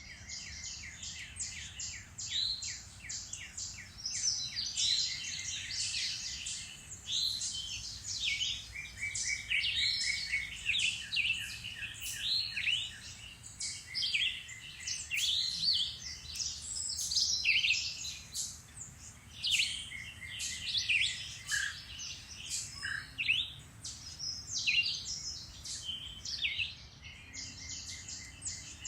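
Several songbirds chirping and singing at once in a dense chorus of overlapping calls, including runs of rapid repeated notes.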